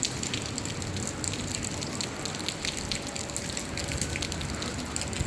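Typhoon rain falling steadily, a constant wash of water noise with many individual drops and drips spattering close by.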